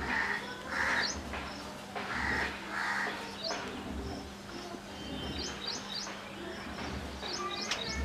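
Birds calling: several harsh, rasping calls in the first three seconds, and short, high, rising chirps scattered throughout.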